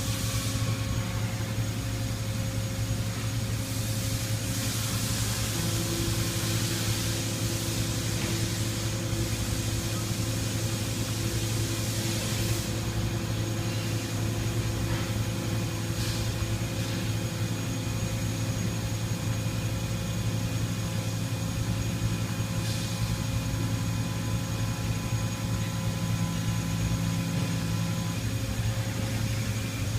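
Toyoda CNC horizontal mill running steadily: a low machine hum with a few steady tones over it, and a hiss that swells about four seconds in and dies away around twelve seconds.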